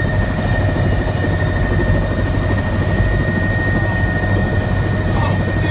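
Helicopter engine and rotor noise heard from inside the cabin: a loud, steady drone with a constant high whine over it.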